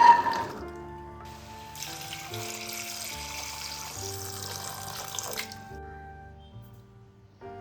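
Water running from a tap for about five seconds, then shut off, over background music. A brief loud knock comes right at the start.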